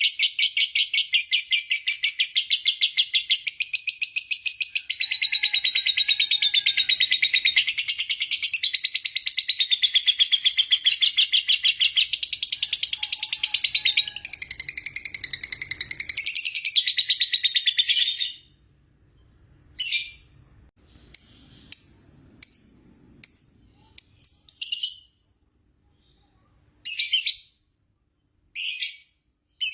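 Lovebird's long ngekek: a rapid, high-pitched chattering trill held unbroken for about eighteen seconds, then broken into short bursts of chatter with gaps between them.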